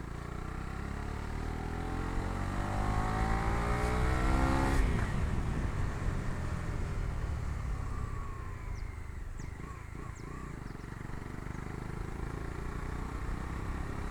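Bajaj Dominar 250's single-cylinder engine accelerating, its pitch climbing for about five seconds, then dropping sharply at an upshift and running more evenly at cruising speed, heard from the pillion seat.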